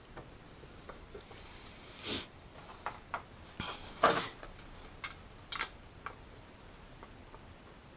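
Hand work on car parts: a handful of scattered clicks, knocks and scrapes as components are handled and fitted, the loudest knock about four seconds in.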